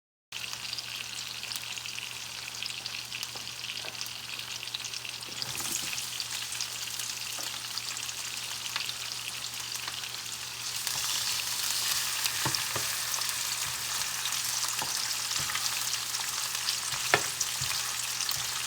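Chicken frying in a skillet with a steady sizzle that grows louder about ten seconds in. A few sharp clicks and scrapes of a utensil stirring the pan come now and then, over a low steady hum.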